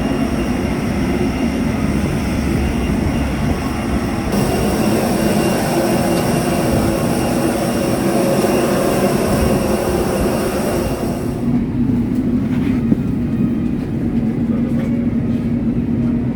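Steady noise of a parked airliner during boarding, a rumble with a high whine, typical of the auxiliary power unit and ground equipment on the stand. The high whine cuts out about eleven seconds in, leaving the lower rumble.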